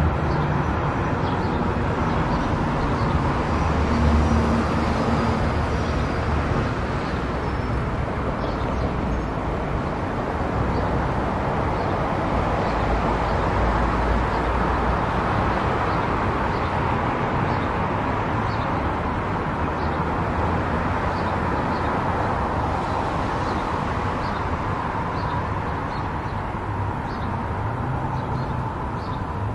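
Car driving at highway speed: steady tyre and road noise with a low engine hum.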